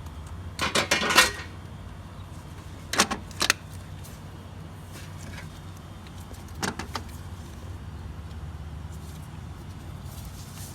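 Scattered metal clicks and clinks of a ratchet and 17 mm socket working on the top starter-motor bolt. They come in short clusters about a second in, around three seconds and near seven seconds, over a steady low hum.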